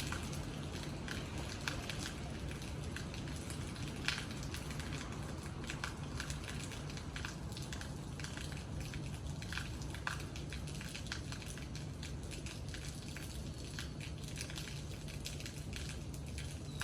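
Steady rain with scattered drops ticking sharply on a hard surface, over a low steady hum.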